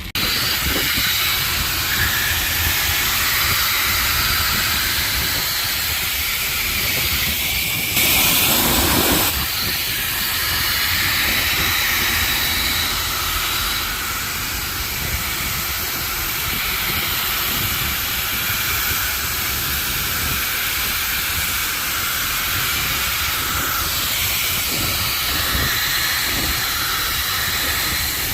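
High-pressure spray wand at a self-serve car wash spraying water onto a car, a steady loud hiss that starts abruptly and briefly gets louder about eight seconds in.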